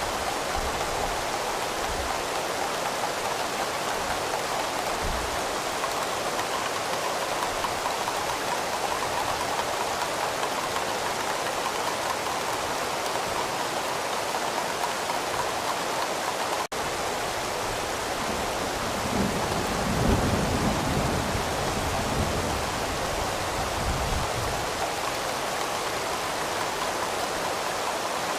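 Steady heavy rain falling, with a low rumble of distant thunder swelling and fading about two-thirds of the way through. A momentary dropout a little past the middle.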